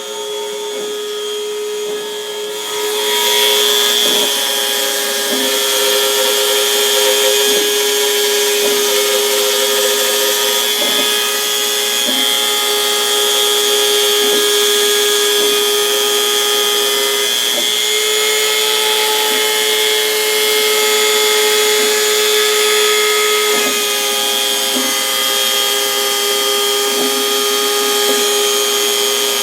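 Home-built CNC router's spindle whining steadily as its bit cuts 4 mm plywood. A louder cutting hiss sets in about two and a half seconds in, with faint knocks every second or so.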